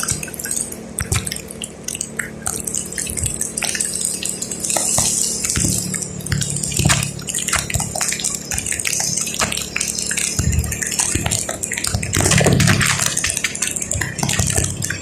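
Rain on a moving vehicle: many small drops clicking against it over the hiss of tyres on a wet road, with a steady low hum underneath.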